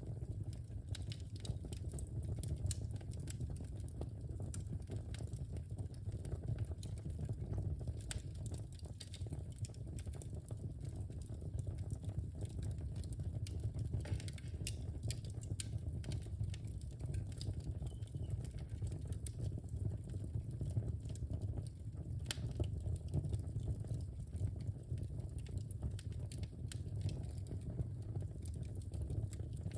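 Wood fire burning in a fireplace, crackling steadily with frequent small pops over a low rumble of the flames.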